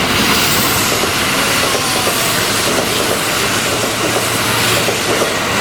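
Train running on rails: a steady rushing noise with some wheel clatter, starting abruptly.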